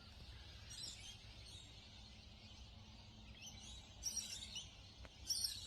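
Faint dawn chorus of birds: short, high chirping calls stand out about a second in and again around four and five seconds, over a steady low background rumble.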